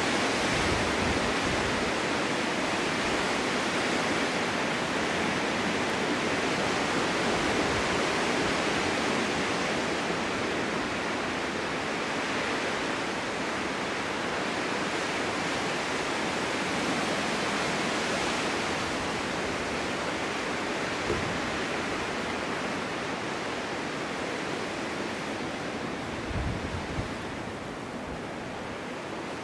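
Snowstorm wind blowing steadily, a continuous rushing noise that eases a little near the end, with a couple of brief low thumps in the second half.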